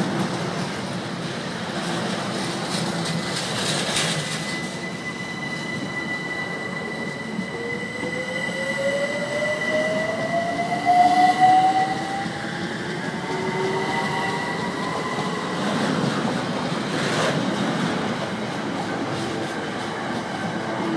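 Container train's wagons rolling past on the rails, with a steady high-pitched wheel squeal and a second whine that rises slowly in pitch through the middle.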